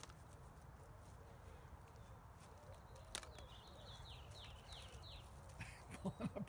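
Quiet outdoor ambience with a songbird singing a quick run of about seven short, high, descending chirps for around two seconds in the middle. Near the end come a few short, low, louder sounds.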